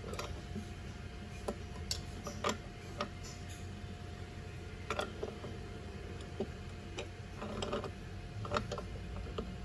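Scattered light metallic clicks and knocks of hand tools and parts being handled, at irregular spacing, over a faint steady hum.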